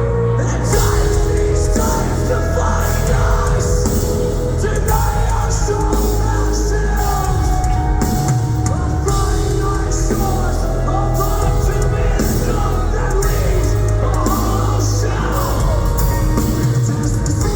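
Metalcore band playing live, loud and distorted: down-tuned guitars and heavy bass over pounding drums, with screamed vocals.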